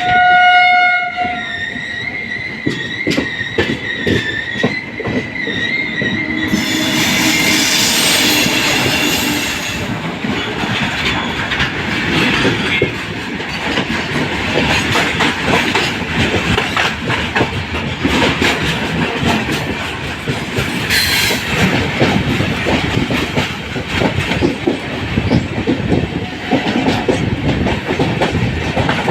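A train horn sounds briefly at the start. A high, wavering wheel squeal follows for several seconds, then the steady running rumble and clickety-clack of LHB coaches passing over rail joints.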